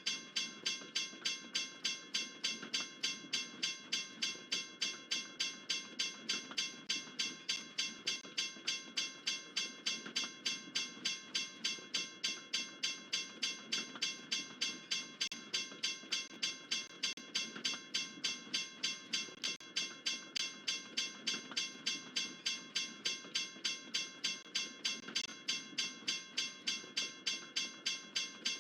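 Railroad crossing bell ringing with rapid, evenly spaced strikes, over the low rumble of a freight train rolling through the crossing.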